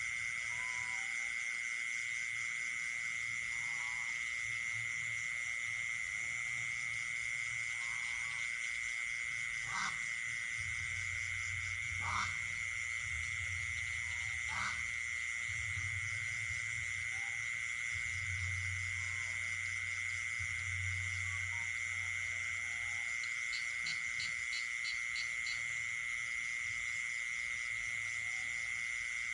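Night chorus of frogs and insects: a steady high insect trill under pulsing higher insect calls, with short frog calls scattered throughout. Three sharp clicks come about two and a half seconds apart near the middle, a low hum comes and goes through the middle stretch, and a quick run of high chirps sounds near the end.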